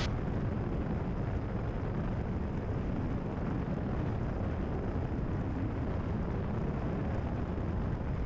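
Steady cabin drone of a Cessna 172RG in flight: its engine and propeller running evenly, with power being eased back for the descent.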